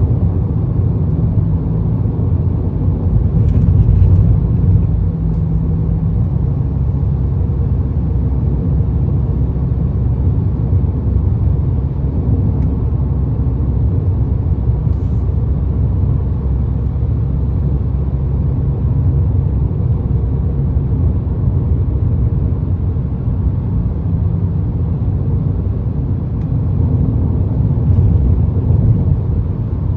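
2022 Ford Maverick with an aftermarket Magnaflow exhaust cruising at steady speed: a steady low rumble of road and wind noise with a slight exhaust drone underneath.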